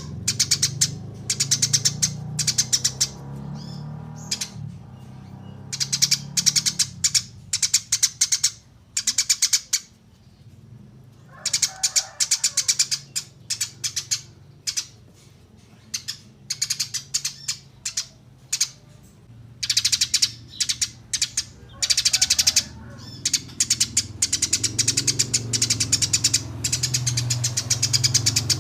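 Small songbirds chirping in bursts of rapid, high-pitched chip notes, each burst a few seconds long with short pauses between, over a low steady hum.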